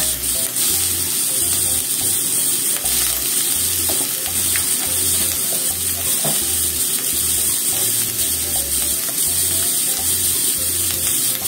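Cabbage and shimeji mushrooms sizzling steadily in olive oil in a frying pan, with a few faint ticks along the way.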